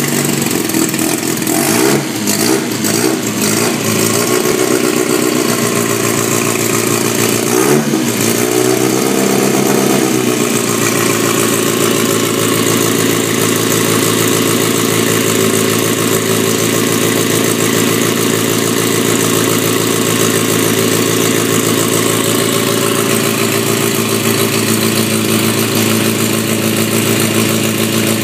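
The Mini Moke's 81 hp BMC A-series four-cylinder engine is running. It is blipped up in a few short revs over the first ten seconds or so, then settles into a steady idle.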